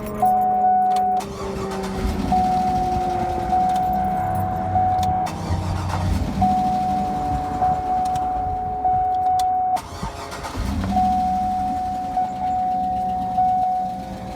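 2009 Cadillac Escalade's V8 switched off and cranked back up about three times in a row, each restart a short low burst as it catches. A steady high warning tone sounds in the stretches between the restarts. The engine goes quiet after each restart, against a tick that comes back once it is warm and that the owner thinks may be a failing oil pump.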